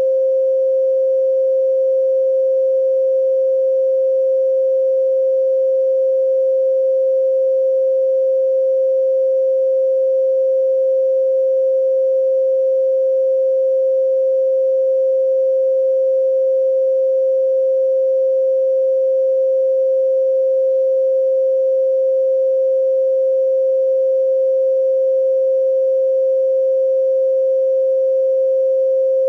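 A pure 528 Hz sine tone held perfectly steady, with no change in pitch or loudness.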